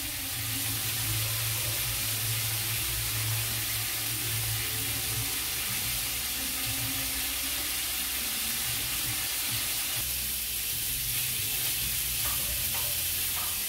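Food sizzling in a hot pot on a stovetop: a steady frying hiss with a low hum beneath it.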